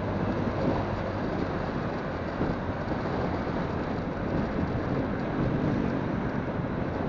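Wind buffeting a phone's microphone on a moving motorcycle, over the steady sound of the engine and tyres on the road.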